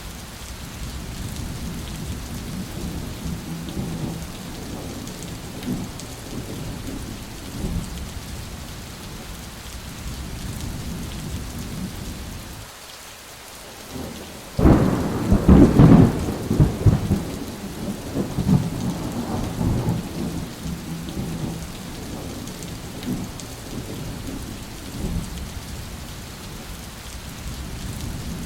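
Steady rain with low rolling thunder, and about halfway through, after a brief lull, a loud clap of thunder that rumbles on for several seconds before dying back into the rain.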